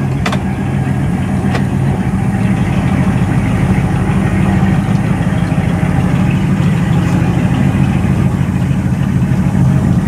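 Old carbureted Cadillac's engine idling steadily, freshly started after sitting unstarted for about a month and a half.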